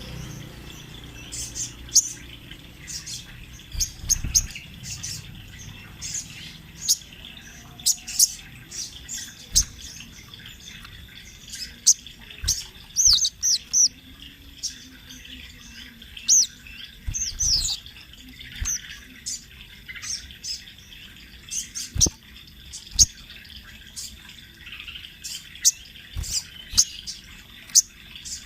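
Sogon trotol, a spiderhunter, singing continuously: a run of short, high-pitched chirps, with quick twittering flourishes about a third and a half of the way through.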